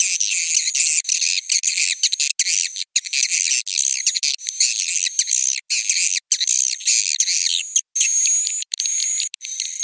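Swiftlet calls played from a recording: a dense, continuous stream of high chirps and twitters, broken by brief gaps. Short steady whistles come in from about two-thirds of the way through. This is the 'suara inap' roosting call that swiftlet-house owners play to draw swiftlets in to roost and nest.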